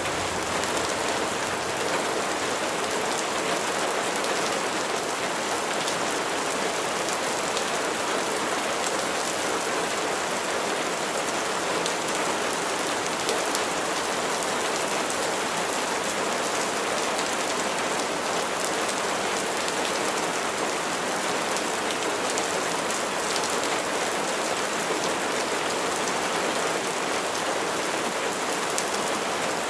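Steady rain falling, a dense even hiss of drops striking a surface with fine individual patters throughout.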